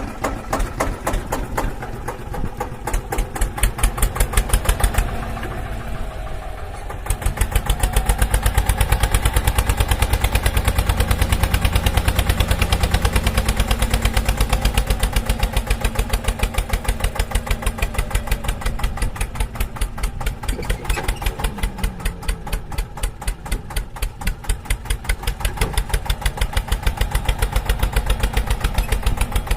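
A small engine running with a fast, even beat of pulses. It drops back for a couple of seconds about five seconds in, then runs louder again.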